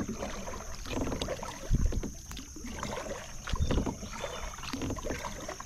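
Kayak being paddled through calm water: paddle strokes with a low thump about every two seconds.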